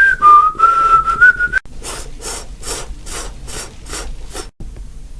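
A person whistling a short, wavering single-note tune, followed by a run of rhythmic rasping strokes, about three a second, that stop after a few seconds.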